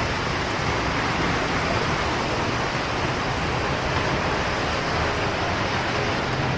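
Hot spring water pouring steadily into a bath, a constant even rush of water.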